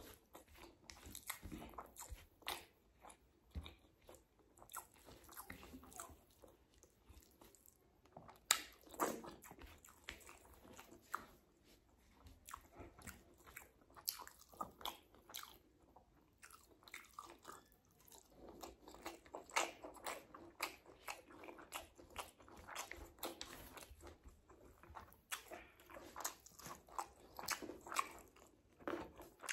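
A person eating rice and boiled-egg curry by hand, chewing and smacking the mouth close to the microphone. Many short, irregular mouth clicks follow one another.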